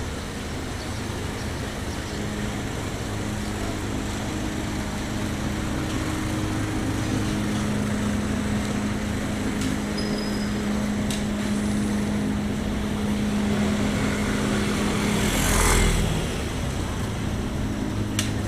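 Street traffic: vehicle engines running steadily, with one vehicle passing close and louder near the end.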